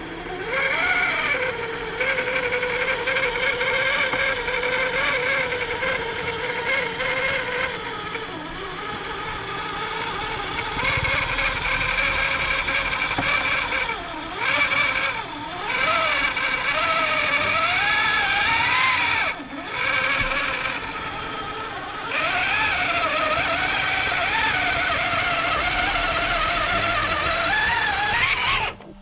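Electric motors and gearboxes of scale RC crawler trucks whining as they drive, the pitch rising and falling with the throttle. There are a few brief let-offs, and the sound cuts off sharply near the end.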